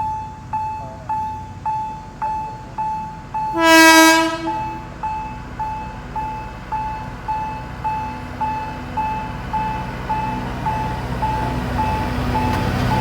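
Railroad crossing bell dinging steadily at about two strokes a second, with a train horn sounding once for about a second, a few seconds in. Toward the end, the low rumble of the approaching train's engine builds up under the bell.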